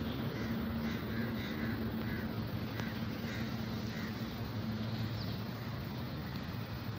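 Birds calling over and over, short calls coming several times a second through the first few seconds, over a steady low rumble of traffic and a faint hum that stops about five seconds in.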